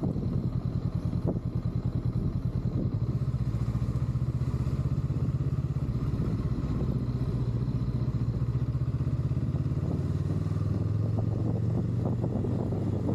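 Honda Rebel 500's parallel-twin engine running as the motorcycle rides along a city street, heard from the rider's seat. Its low pulsing note is uneven at first and steadies about three seconds in.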